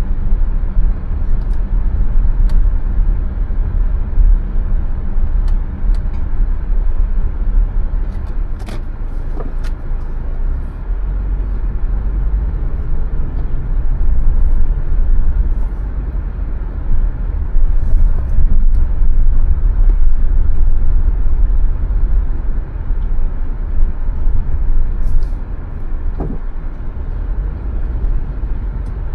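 Car driving: a steady deep rumble of engine and road noise that swells and eases as it goes, with a few brief clicks and knocks.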